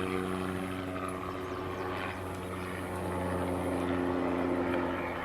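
Helicopter flying low straight overhead, a steady drone that grows louder in the second half.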